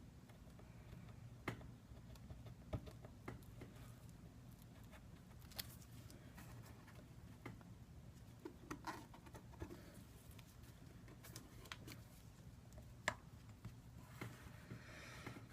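Near silence over a low steady hum, broken by a few faint, scattered clicks and light taps of small tools and parts being handled on a workbench.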